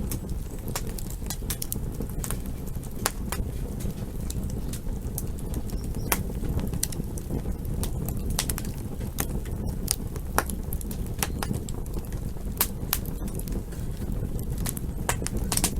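Campfire crackling: irregular sharp pops and snaps of burning wood, several a second, over a steady low rumble, with a burst of louder pops near the end.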